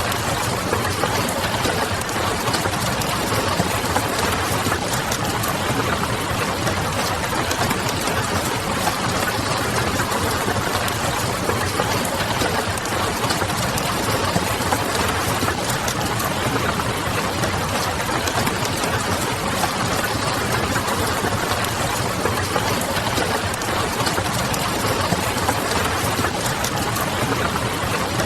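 Steady rain pattering on a window, mixed with small crackles of a wood fire over a low, steady hum. The mix is dense and even, with no pauses or changes.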